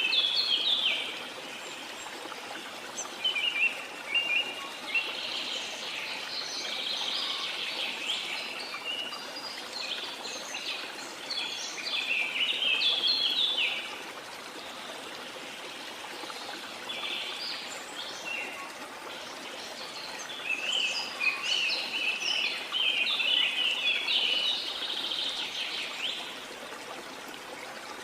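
Small songbirds chirping and singing in bouts of quick, high notes over a steady rush of water. The longest bouts of song run from about a fifth of the way in to about halfway, and again from about three-quarters of the way in to near the end.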